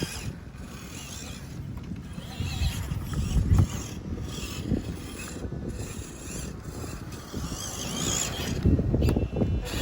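Small electric motor and gears of an RC crawler truck whining as it drives, with low thumps about three and a half seconds in and again near the end.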